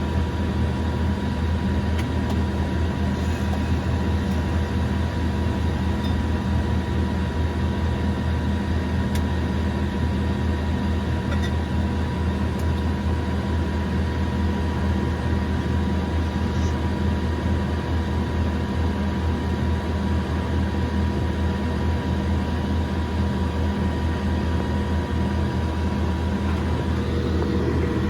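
Cessna 208B Grand Caravan EX's single PT6A turboprop engine running steadily, heard from inside the cabin: a low drone with a thin steady whine above it.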